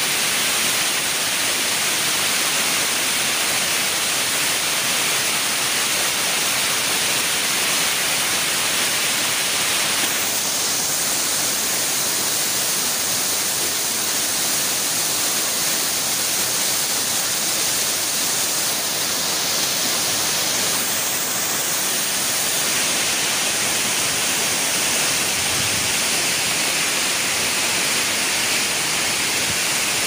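Asik-asik Falls, a broad curtain of many streams spilling down a mossy cliff face into a pool, rushing steadily with an even, hissing spray of water noise. The sound's colour shifts slightly for a stretch in the middle, then returns.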